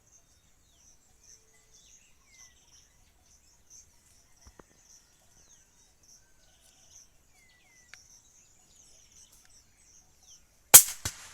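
Insects chirping steadily, with a few short falling bird chirps. Near the end a single sharp gunshot with quick echoes, by far the loudest sound.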